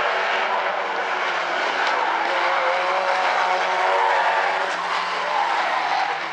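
A pack of Stinger figure-8 race cars running close together, several engines revving at once with their pitches rising and falling.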